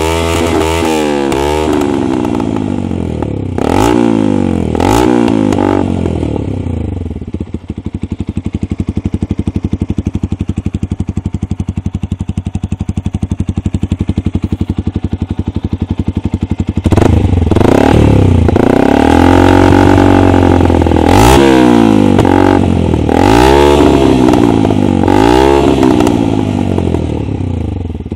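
Yamaha YZF-R125's 125 cc single-cylinder four-stroke engine through an R6 exhaust, revved in a few blips, then idling with a steady even beat for about ten seconds. It is then revved up and down repeatedly before settling back toward idle near the end.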